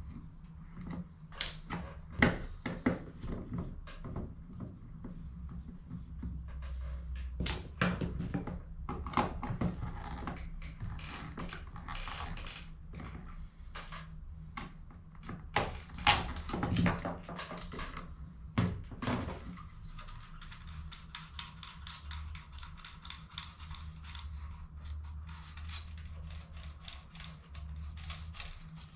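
Hard plastic toner cartridge parts being handled and worked on, with irregular clicks, taps and knocks. The clicks thin out after about twenty seconds, leaving a steady low hum.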